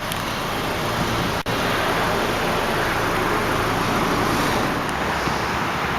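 2010 Hyundai Elantra Touring's 2.0-litre inline-four idling, heard from outside the car as a steady low hum under a wide hiss. The sound drops out for an instant about a second and a half in.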